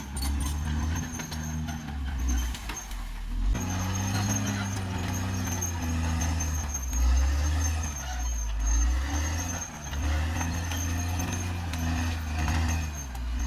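Caterpillar D6R XL bulldozer's diesel engine working under load, its pitch rising and falling, with a steady high whine and scattered clanks and knocks.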